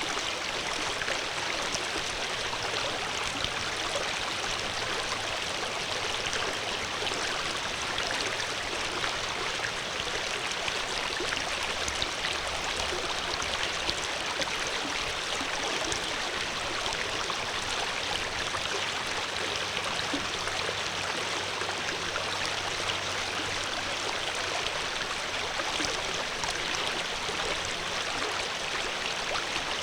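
Water flowing steadily over rocks in a stream, a continuous even rushing and burbling with no breaks.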